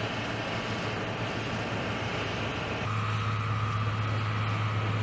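Steady engine and blower noise from a snow-blowing machine clearing snow off a large aircraft's wings. About three seconds in, it changes to a steadier low hum with a thin high whine.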